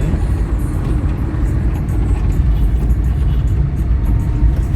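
Steady low rumble of road and engine noise from a moving vehicle, heard from on board.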